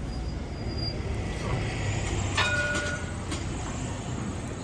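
Edinburgh tram, a CAF Urbos 3, pulling away from a stop with a steady low rumble. About two and a half seconds in there is a brief ringing chime.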